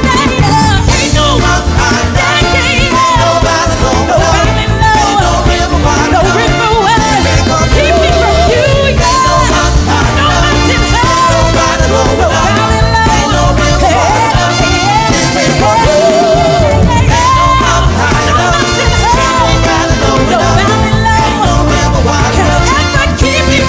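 Band music: a melodic lead line that wavers in pitch over a steady low beat.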